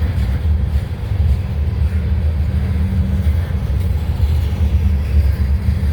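Freight train of empty autorack cars rolling past: a steady low rumble of wheels on rail, with faint rhythmic clacks of the wheels over rail joints.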